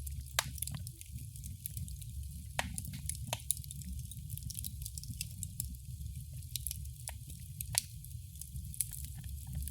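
Fire in a fireplace crackling: frequent irregular snaps and pops over a steady low rumble, with a few louder pops scattered through.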